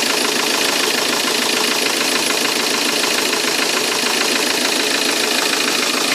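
Citroën C8's 2.0 HDi 110 four-cylinder common-rail diesel idling steadily with a fast, even clatter. Its four injector seals have just been replaced, and the owner is unsure whether it is running correctly.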